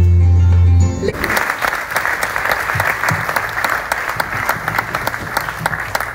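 Music ends on a loud held low note about a second in, and an audience breaks into applause, many hands clapping steadily for the rest of the time.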